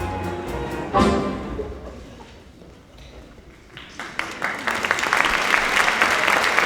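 Theatre orchestra ends a musical number on a loud final chord about a second in, which rings and dies away. About four seconds in, audience applause starts and builds.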